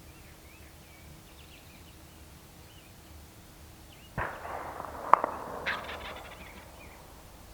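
Two 12-gauge shotgun shots about a second apart, the second the louder, each cutting off a sharp crack into a trailing echo. Songbirds chirp faintly before them.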